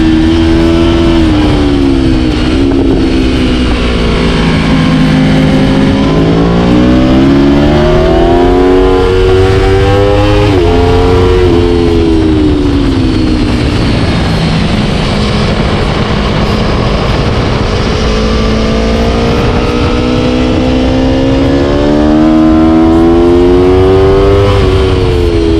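Aprilia Tuono V4 1100's V4 engine under hard riding, its pitch climbing as it accelerates and falling away as it slows. There is a sudden drop in pitch about ten seconds in, and a long climb near the end that peaks and falls again.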